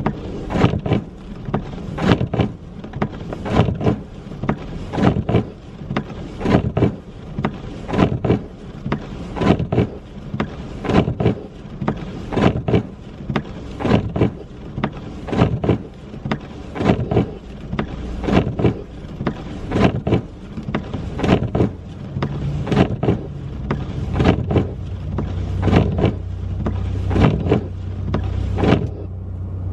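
Footsteps crunching through snow at a steady walking pace, about one and a half steps a second. Near the end they stop and a steady low engine hum takes over.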